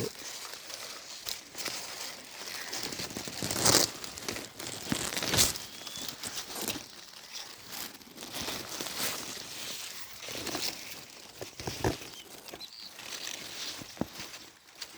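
Dry sugarcane leaves rustling and crackling as they are moved, in irregular bursts, loudest about four and five and a half seconds in.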